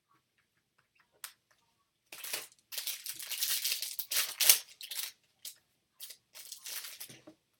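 Foil wrapper of a trading-card pack being torn open and crinkled: a dense rustle starting about two seconds in and lasting about three seconds, then a few shorter crinkles near the end.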